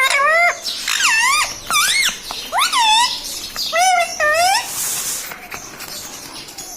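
Indian ringneck parrot calling: about six short, squealing calls that swoop up and down in pitch in quick succession. A brief hiss follows about five seconds in.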